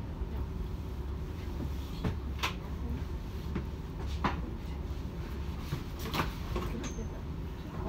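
Low steady rumble inside the carriage of a train standing at a station, with a few sharp knocks and clicks in the carriage and a brief high beep near the end.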